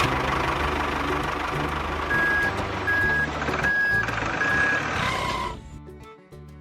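Truck engine running with a reversing alarm beeping four times, evenly spaced, starting about two seconds in; the engine noise drops away a little after five seconds. Background music plays underneath.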